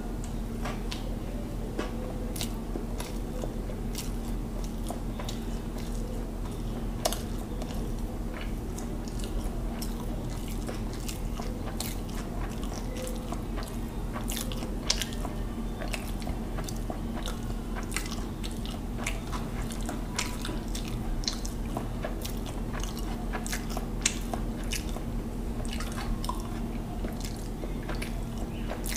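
Close-miked chewing and mouth sounds of a man eating hilsa biryani by hand, with many sharp, irregular clicks and smacks. A steady low hum runs underneath.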